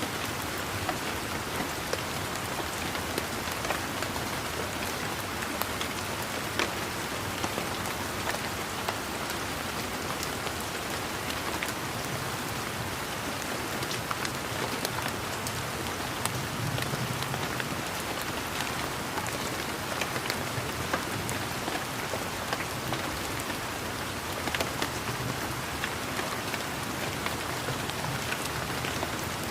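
Steady rain falling, a dense even hiss with many individual raindrops striking surfaces as sharp, scattered ticks.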